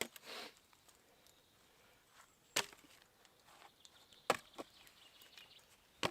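Firewood being chopped with a blade swung down hard: separate sharp wooden chops, one right at the start, then about two and a half and about four and a quarter seconds in with a lighter knock just after, and another at the end.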